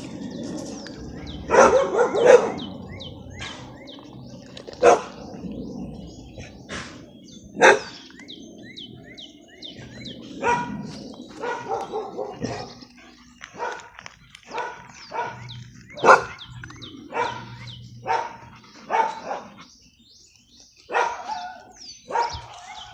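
Kennel dogs barking over and over in short single barks, spaced irregularly, some close together and some with pauses of a second or more.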